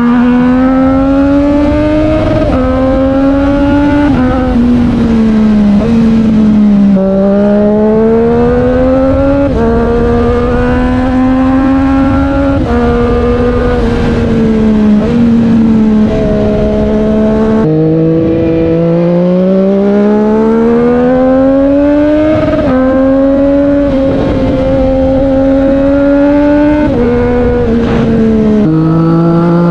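Triumph Street Triple 765 R's inline three-cylinder engine through an SC Project S1 exhaust, under way. The pitch climbs again and again and drops sharply at each gear change, with a few stretches of steady running in between.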